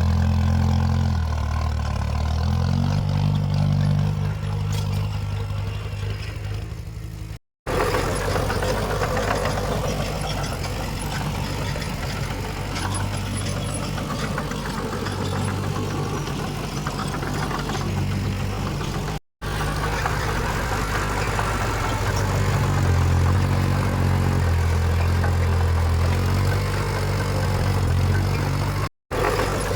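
Heavy earthmoving machinery's diesel engines running under working load, the low engine note rising and falling, with mechanical clatter above it. The sound drops out completely three times for a split second.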